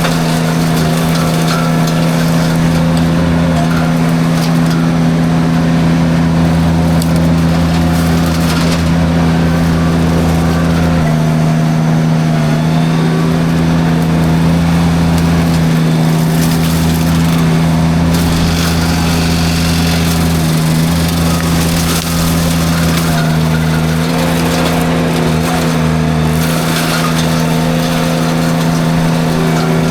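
Derette V1000 mini skid steer running steadily with its forestry drum mulcher spinning as it cuts through light brush. The engine note holds steady and dips slightly now and then, and a lower throb cuts in and out.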